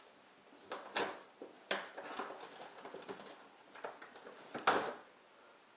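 A dog tearing and scratching at a cardboard shipping box: a run of irregular ripping and rustling noises, the loudest near the end.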